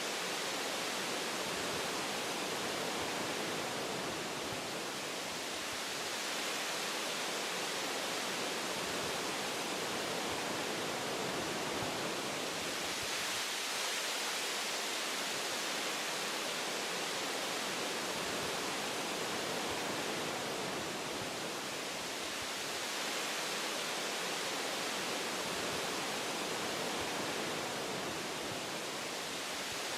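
Wind blowing through forest branches: a steady rushing noise that swells and eases gently every few seconds.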